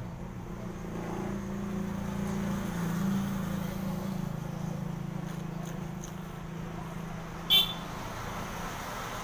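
Steady low engine rumble, with one brief, sharp, high-pitched clink or beep about seven and a half seconds in.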